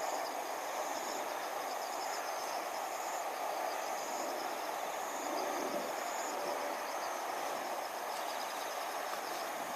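Insects trilling in fast, high-pitched pulses over a constant background hiss.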